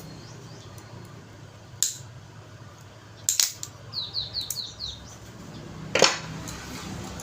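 Sharp clicks and knocks of small stove parts being handled while a gas stove's ignition unit is worked on: one click just before two seconds in, a quick cluster around three and a half seconds, and the loudest knock about six seconds in. In between, a bird gives five quick falling chirps.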